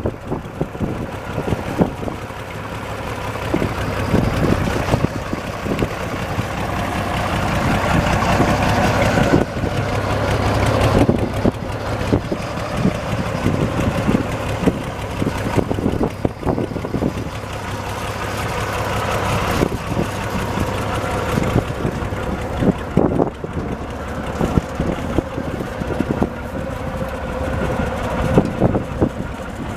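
1959 Farmall 560 tractor engine running steadily, growing louder over the first several seconds.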